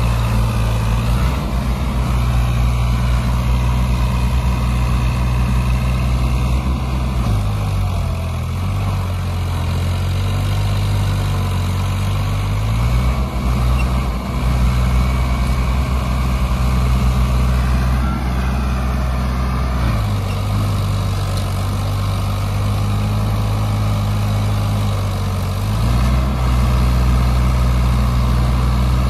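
Diesel tractor engine running loudly, its note dropping for a few seconds and then climbing back up, twice.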